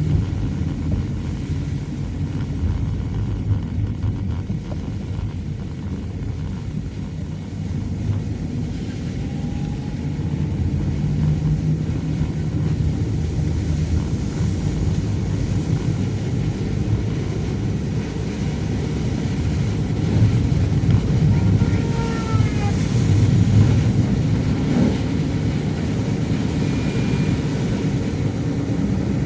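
Low, steady rumble of a car on the move: engine and road noise. A few faint short squeaky glides come about three quarters of the way through.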